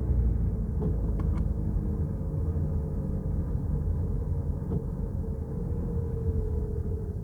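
A car driving along: a steady low engine and road rumble, with a few faint clicks.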